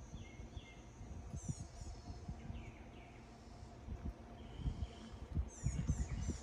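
Small songbirds chirping in the trees, with a few short, high, downward-sweeping calls, over gusts of wind rumbling on the microphone that grow stronger near the end.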